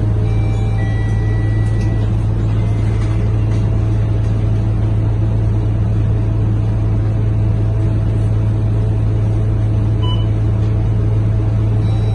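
Steady low drone of a Scania K230UB bus's diesel engine heard from inside the passenger cabin, an even hum with no sudden changes.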